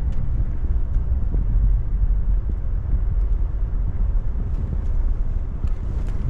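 2018 Toyota Tacoma pickup driving slowly along a snow- and ice-covered road, a steady low rumble of engine and tyres.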